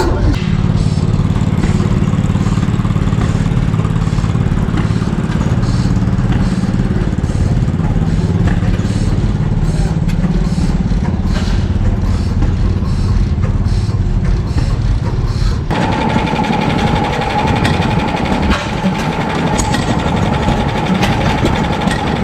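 Antique engines running steadily with a low, even hum. About 16 seconds in, the sound cuts abruptly to a different machine running, with a steady high whine over it.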